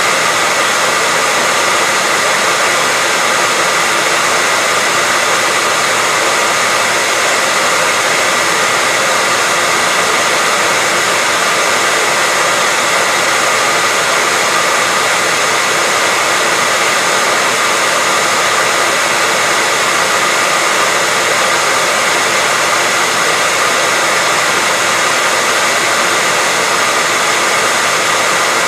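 Hair dryer running continuously, a steady rushing blow of air with a faint whine, with no change in speed or pitch.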